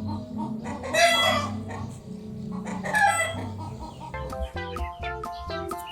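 A rooster crowing twice, a longer crow about a second in and a shorter one near three seconds, over a steady low music bed. From about four seconds a quick run of plucked musical notes takes over.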